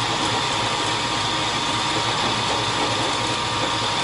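Machine tool running steadily while a boring bar cuts a hole in metal: an even mechanical hum with a steady high whine.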